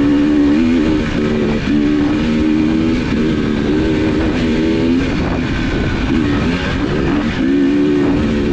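A vehicle driving: a steady rumble of engine and road noise, with a pitched drone that shifts up and down in pitch every second or so.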